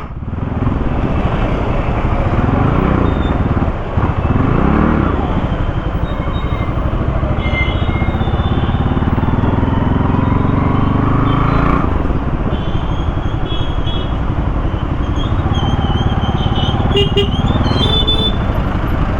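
Kawasaki Z900's inline-four engine being revved: quick rises and falls in pitch a few seconds in, then a long climbing rev that breaks off suddenly about twelve seconds in, after which it runs on steadily.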